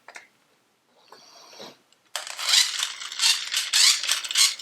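Battery-powered toy bubble gun switched on about two seconds in, its motor and gear mechanism clattering with a rapid ratcheting as it drives air through a homemade smoke-tester jar. Faint handling sounds come before it.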